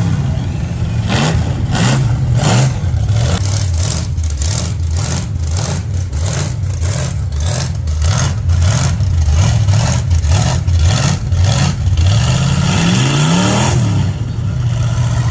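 Mud truck's engine revving hard and unevenly while it fights to move in deep mud, over a fast, steady run of sharp slaps and cracks. Near the end the engine pitch climbs and drops.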